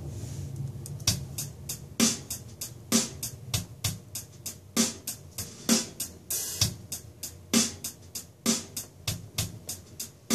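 Programmed drum-kit loop in 3/4 time playing back, with strong hits on the beats a little under once a second and softer hi-hat triplet notes and ghost notes between them. It starts about a second in.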